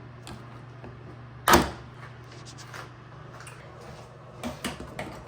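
A single loud clunk from the dishwasher's plastic housing being handled and pried at, about a second and a half in, then a few lighter plastic clicks near the end, over a steady low hum.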